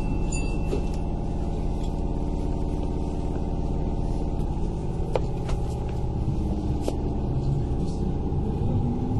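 Inside a Kintetsu 8000 series electric train car: a steady hum and rumble with a few sharp clicks, and near the end a rising whine as the traction motors begin to accelerate the train.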